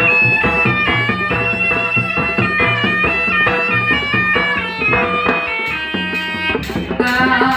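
Javanese jaranan ensemble music: a reed shawm (slompret) plays a held, nasal melody over drums and gongs, with sharp percussion hits coming in near the end.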